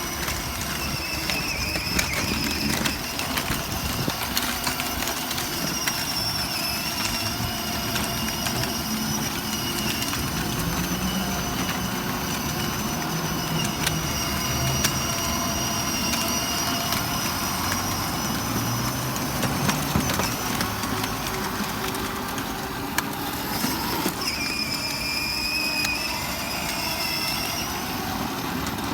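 A vehicle's motor running steadily, with a high whine that wavers slightly in pitch over a low rumble.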